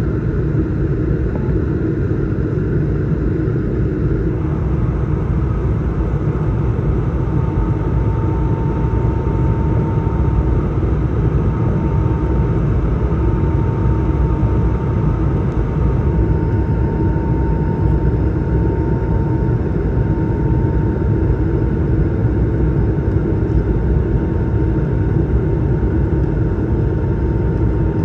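Steady rumble of cabin noise aboard an Airbus A220-300 airliner, from its engines and airflow. A faint steady whine joins about seven seconds in.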